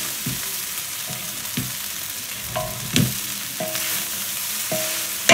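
Fried rice sizzling in a hot wok as it is stirred, with the spatula knocking against the pan now and then: once about three seconds in and once, loudest, at the very end.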